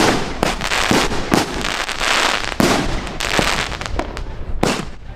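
Fireworks going off in quick succession: a string of sharp bangs, each followed by a hissing, crackling tail.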